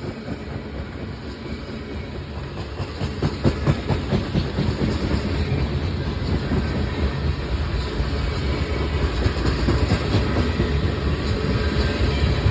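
CSX manifest freight train rolling past, a steady rumble with the wheels clacking over the rail joints, growing louder over the first few seconds.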